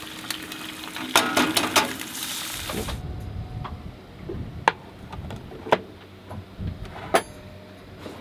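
Eggs sizzling in a frying pan with a quick clatter of utensil clicks, the sizzle cutting off suddenly about three seconds in; after that, scattered light clicks and knocks over a low background.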